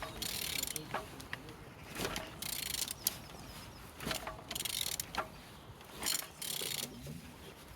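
Engine being turned over by hand with a ratchet wrench on the crankshaft bolt. The ratchet rasps in four short bursts about two seconds apart, with single clicks between them as each stroke turns the crank. The engine turns freely, showing it is not seized.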